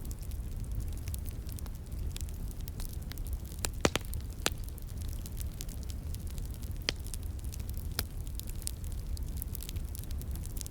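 Wood fire crackling and popping over a steady low rumble, with a cluster of sharp pops about four seconds in and a few more later.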